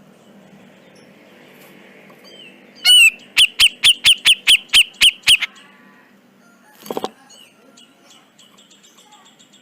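Cucak jenggot (grey-cheeked bulbul) singing: a loud opening call, then a quick run of about ten sharp repeated notes at roughly five a second, lasting about two seconds. A single short loud note follows a moment later, and faint rapid ticking notes come near the end.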